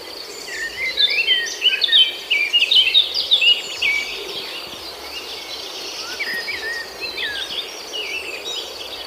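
Several birds chirping in quick short calls, busiest in the first few seconds, over a steady high-pitched insect drone.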